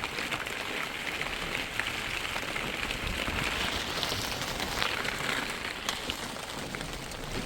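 Steady rain with a dense spread of small drop ticks striking a surface.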